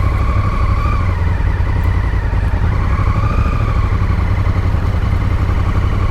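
Honda Africa Twin's parallel-twin engine running with a steady low rumble, a faint high whine rising and falling twice above it.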